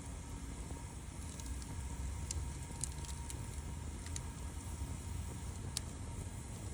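Wood campfire burning, with a few sharp crackling pops of burning wood over a steady low rumble.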